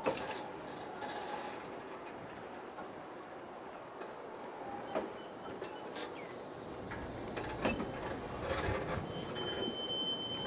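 Taroko TEMU1000 train set being pushed slowly along yard track by a switcher engine: steady rolling noise with occasional sharp clicks and knocks from the wheels and couplings. A low rumble builds over the last few seconds, and a steady high squeal comes in near the end.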